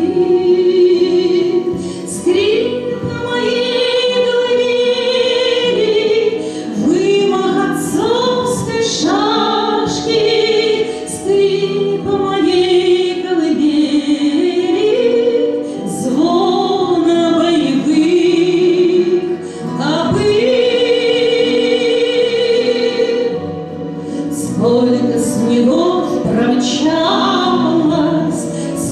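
A woman singing a slow song in long held notes with vibrato, over a musical accompaniment.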